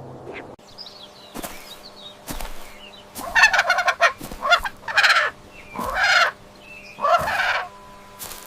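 Farm poultry calling: a run of about five loud, harsh, rapidly pulsing calls from about three seconds in, after a few faint chirps.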